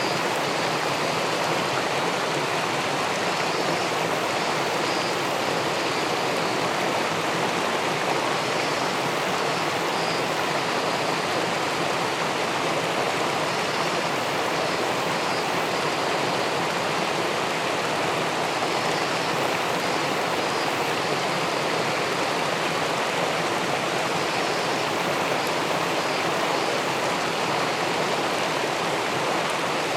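Steady rushing of river water spilling over a weir into the pool below, an even, unbroken hiss of moving water.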